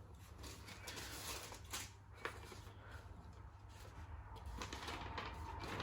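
Faint scattered clicks and rustling over a low hum that slowly grows louder.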